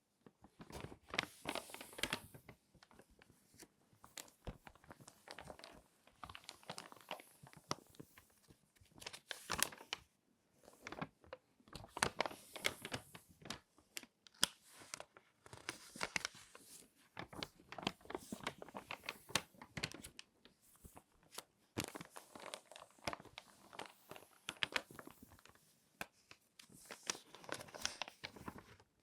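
Crinkly magazine pages being folded and creased by hand close up, in repeated irregular bouts of crackling and crinkling with short pauses between them.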